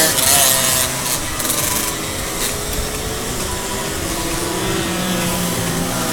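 Racing car engines running and changing pitch as they rev, with a loud burst of hiss during the first second.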